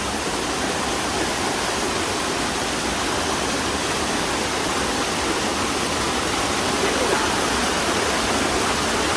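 Steady rush of a large waterfall in monsoon flow.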